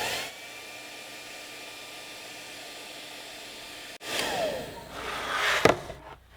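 Handheld hot-air blower heating a freshly glued plastic seam: its fan motor spins up at the start and runs with a steady blowing whine. After about four seconds the blowing turns louder and the motor's whine falls in pitch as it winds down, with a sharp knock near the end.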